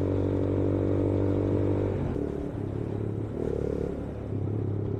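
Yamaha YBR 125G's single-cylinder four-stroke engine running under way, heard from the rider's helmet camera. It holds a steady note for about two seconds, then drops in level and changes pitch.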